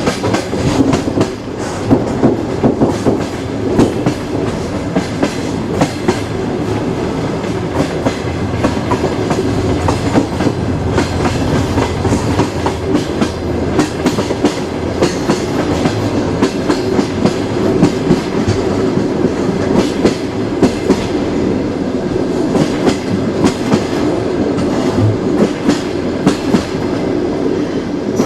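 Train wheels running on the rails: a steady rumble with frequent sharp clickety-clack clicks from the wheels passing over rail joints.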